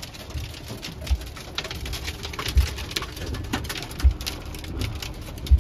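Heavy rain pelting a camper van's roof and windshield, with many sharp irregular ticks over a steady patter. A low soft thump comes about every second and a half.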